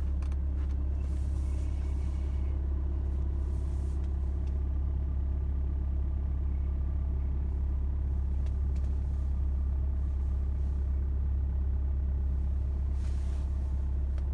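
BMW E91 320d's four-cylinder diesel engine idling steadily after a cold start, with a deep, even hum.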